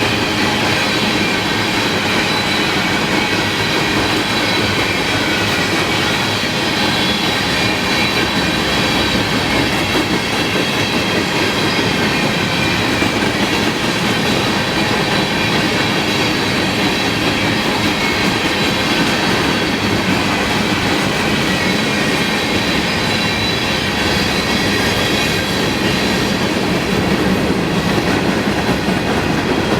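Freight cars of a Canadian Pacific grain train rolling steadily past at close range, with wheels clattering on the rails and a continuous high-pitched wheel squeal.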